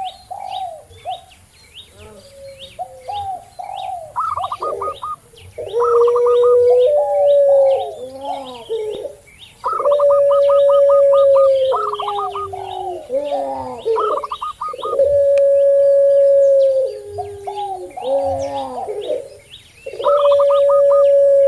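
Doves cooing together: a puter pelung dove gives long, drawn-out level coos about every five seconds, each ending on a lower note. Quick runs of higher cooing notes and short low coos come between them, typical of a zebra dove and a spotted dove. Small birds chirp throughout.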